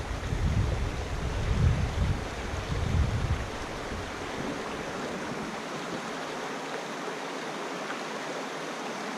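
Steady rush of flowing river water. Wind buffets the microphone with gusty low rumbling for the first three seconds or so, then drops away.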